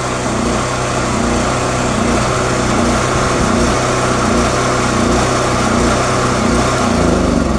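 Portable gasoline generator engine running with its fuel valve shut off, wavering in a steady, repeating surge as it uses up the last fuel in the carburetor.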